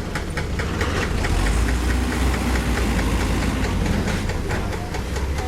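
Heavy earthmoving machine's diesel engine running steadily, with a rapid, even clatter over a low rumble.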